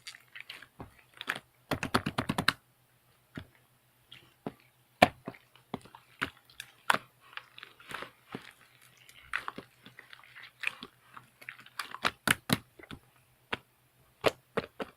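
Mixed slime being squished and poked by hand, giving irregular sticky clicks and pops, with a quick run of rapid clicks about two seconds in.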